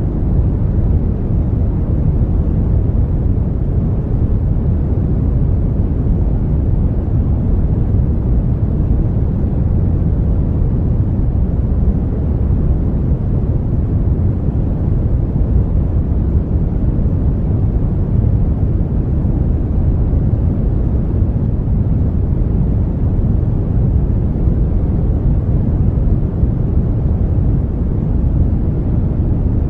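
Brown noise: a steady, even deep rumbling hiss, heaviest in the bass and thinning toward the treble, with no changes or events.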